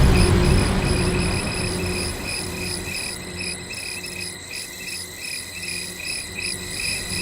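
Crickets chirping in a steady, rapidly pulsing trill, with the low rumble of a boom dying away over the first couple of seconds.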